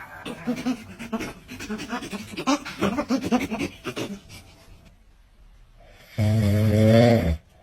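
Dog panting in quick puffs, then a loud, drawn-out, low-pitched vocal sound lasting about a second near the end.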